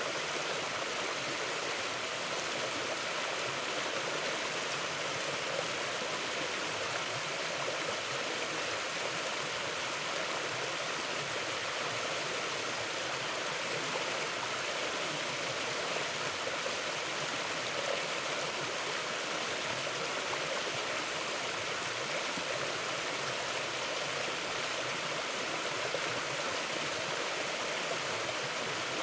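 A mountain stream flowing over rocks: a steady, unbroken rush of running water.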